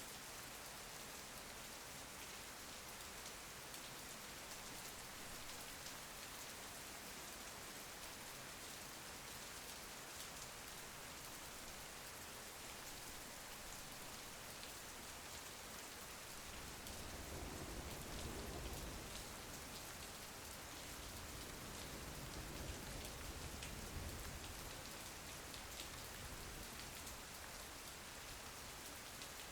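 Steady rain pattering on a window, a soft even hiss with fine drop ticks. Just past halfway a low rumble swells in for several seconds and fades again.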